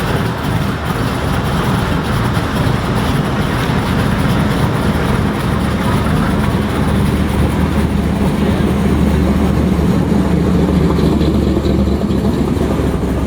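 A car engine running steadily at idle, a constant low drone.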